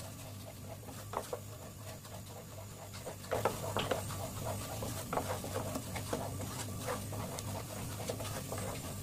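A spoon stirring and scraping through hot caramel in a pan, with baking soda just mixed in: short irregular scrapes and clicks from about three seconds in, over a low steady hum.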